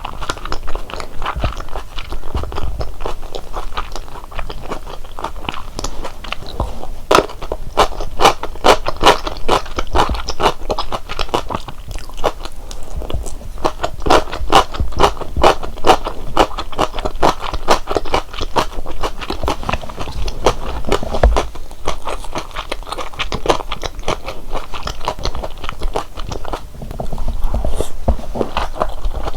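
Close-miked chewing and biting of large Korean dumplings (wang-mandu): a dense run of wet clicks and smacks, thinning briefly a few times.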